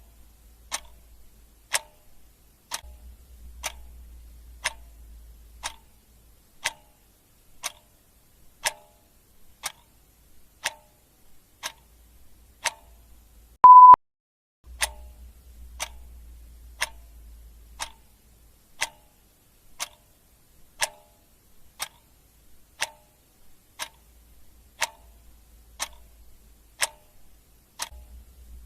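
Clock ticking steadily, about one tick a second. About halfway through, a single short high beep sounds, louder than the ticks.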